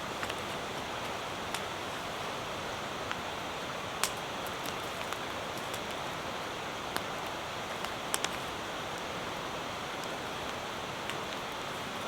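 Steady hiss of rain with a wood campfire crackling, giving a few sharp pops: one about four seconds in and a quick pair about eight seconds in.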